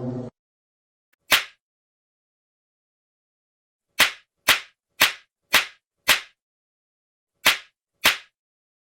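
A series of sharp slap-like cracks in dead silence. There is one crack, a pause of over two seconds, then five quick ones about half a second apart, and two more near the end.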